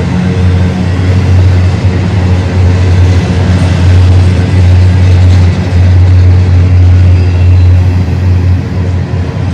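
BNSF intermodal freight train rolling past: a loud, steady rumble of wheels on rail with a low drone underneath.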